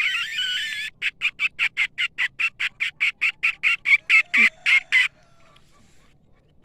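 A bird calling: a brief warbling phrase, then a fast run of about twenty short, evenly spaced high notes, about five a second, growing slightly louder before stopping abruptly about five seconds in.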